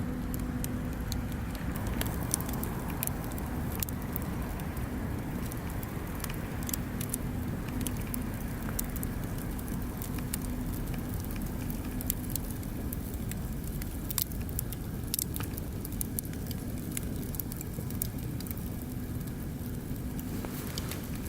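Bonfire burning, with dense irregular crackles and sharp pops over a steady low rumble.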